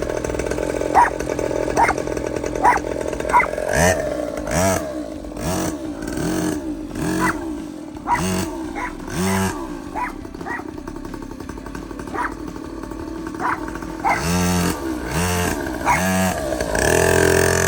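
Mini bike's small engine running on test after the repair, revved again and again so the pitch rises and falls about every half second.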